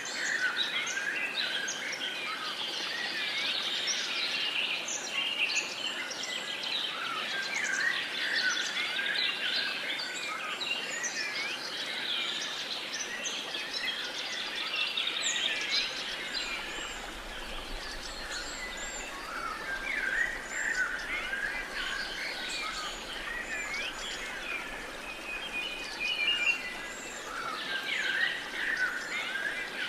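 Dawn-chorus style birdsong: many birds chirping, whistling and trilling at once, over a soft, steady background hiss.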